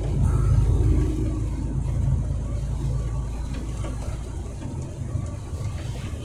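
Truck engine running while driving, a steady low drone that is loudest in the first second and then eases off.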